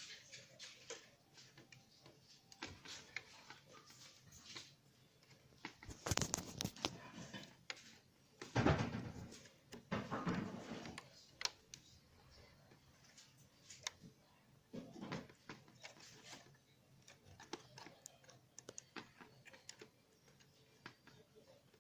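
Faint scattered clicks and rattles of small plastic parts being handled, with louder rustling bursts about six seconds and nine seconds in.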